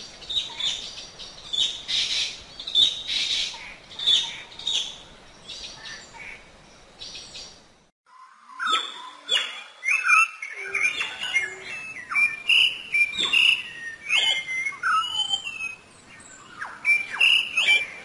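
Birdsong. First comes a run of rapid, repeated high chirps. After a brief break about eight seconds in, a variety of whistled calls follows, gliding up and down in pitch.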